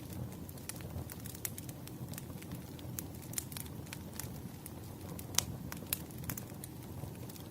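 Wood fire burning: a steady low rumble with many irregular sharp crackles and pops, two louder pops a little past halfway.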